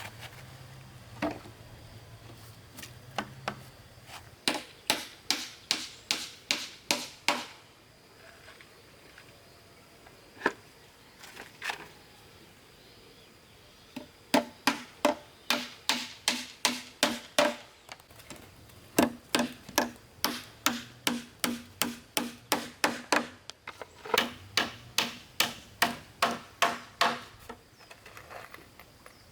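A hand tool striking wood in quick, even blows, about three a second. The blows come in runs of several seconds, with short pauses between.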